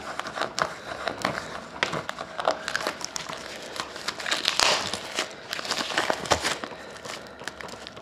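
Crinkling and crackling of card packaging being handled and pulled open, irregular rustles with scattered small clicks and a couple of louder crinkles around the middle.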